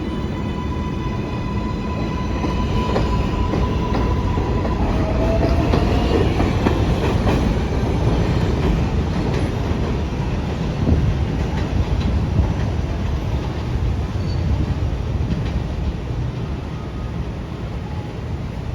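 An R188 subway train running along the elevated track. Its traction motors give a steady electronic whine for the first few seconds, then its wheels rumble and clatter over the rails, with some wheel squeal.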